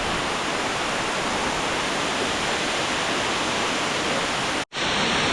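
Steady rushing of a waterfall, with a brief total dropout near the end where the recording cuts.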